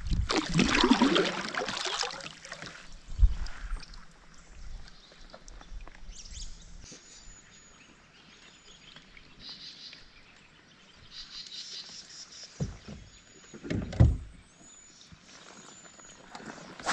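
Kayak on the water: a splashing, sloshing rush for the first two seconds or so, then a few low knocks against the hull. Several short, high, thin bird calls come through in the quieter stretch.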